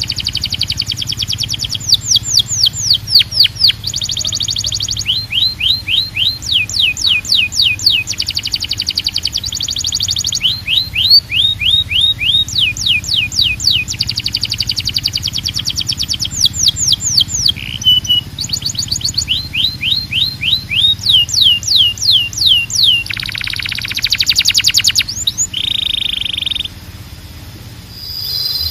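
Domestic canary singing: rapid rolls of repeated down-sweeping whistled notes, each phrase lasting a second or two before switching to another roll. Near the end comes a harsh buzzy trill, then a short steady note.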